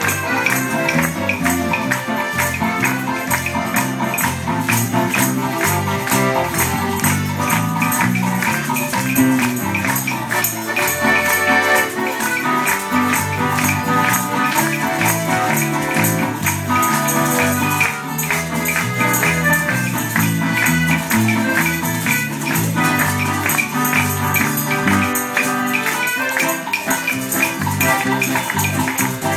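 Live Mexican popular music played on guitars and accordion, with tambourines and shakers keeping a steady beat.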